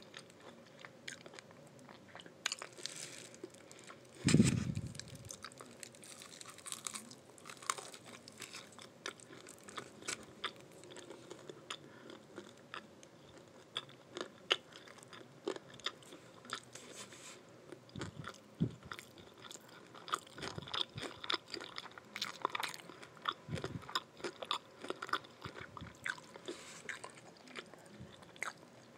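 A person biting and chewing crispy fried chicken wings and vegetable fried rice close to the microphone, with wet crunching and crackling throughout. A single loud thump about four seconds in.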